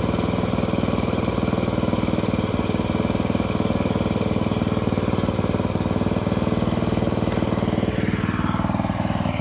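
A small engine on a log-milling rig runs steadily with an even pulse. Over roughly the last second and a half, a higher tone falls in pitch.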